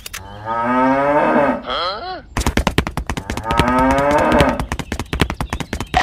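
Cow mooing: one long moo just after the start and another about midway. From a little before halfway on, a rapid run of sharp clicks clatters under the second moo.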